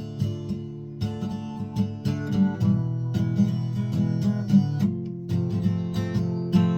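Guitar music without singing: chords strummed in a steady rhythm.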